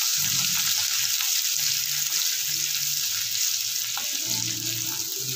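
Chopped garlic and ginger sizzling in hot mustard oil in a kadhai as they are stirred with a wooden spatula: a steady hiss, with a single click about four seconds in.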